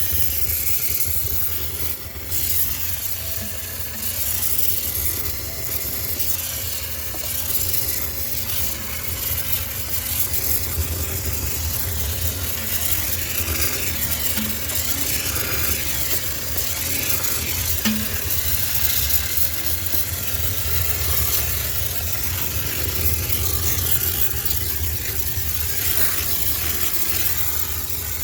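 High-pressure steam cleaner spraying a hissing steam jet into a sneaker washing machine to sterilize it, with a steady low hum from the unit underneath.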